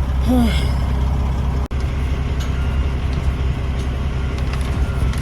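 Semi truck's diesel engine idling with a steady low rumble. A brief pitched sound bends up and down about half a second in, and the sound cuts out for an instant just under two seconds in.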